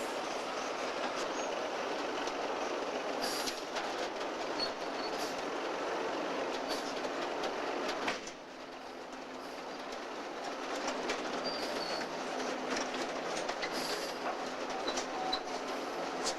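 Locomotive and railroad coal cars rolling along the track: a steady rumble with scattered clicks of wheels over rail joints and a few brief, faint wheel squeals. The sound drops suddenly about eight seconds in, then builds back up.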